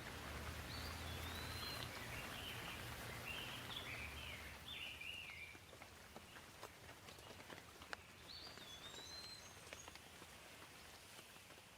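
Light, gentle rain, with scattered drops ticking sharply, mostly in the second half. A bird sings a run of short, wavering whistled phrases in the first five seconds and sings again briefly near the end.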